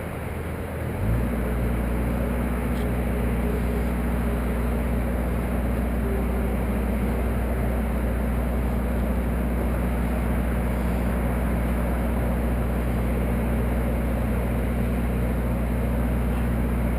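Motor engine running steadily, stepping up to a higher, louder speed about a second in and holding there.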